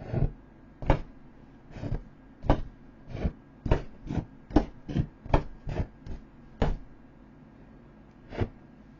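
Repeated sharp strikes on an inflatable vinyl boat as it is being punctured: about fourteen knocks at an uneven pace, quickening in the middle, then a pause and one more near the end.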